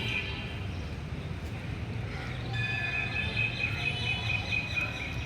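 Birds calling in high, thin tones over a steady low rumble of outdoor background noise; the calls come in clearly about halfway through.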